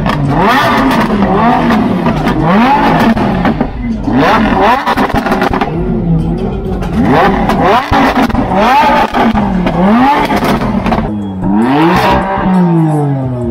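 A car engine revved again and again, its pitch climbing and dropping every second or so, with a run of quick climbing revs near the end.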